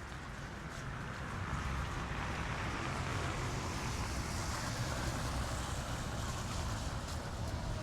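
Street noise: a steady low rumble and hiss of traffic that swells about a second and a half in and then holds.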